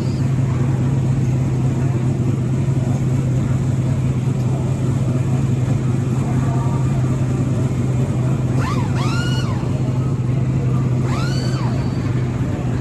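NASCAR Truck Series race trucks' engines in a steady, loud roar from the track, with two short whines that rise and fall in pitch about nine and eleven seconds in.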